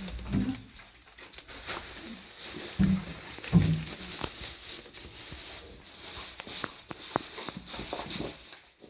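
A dog making a few short low grunts, the loudest about three and a half seconds in, among scattered clicks and knocks.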